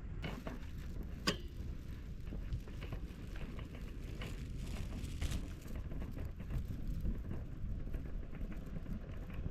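Steady low outdoor rumble with scattered light clicks and knocks, one sharper click about a second in.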